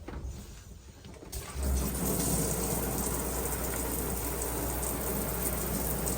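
RV shower head turned on about a second and a half in, spraying steadily with a low pump hum underneath, as the water pump pushes RV antifreeze through the shower line to winterize it.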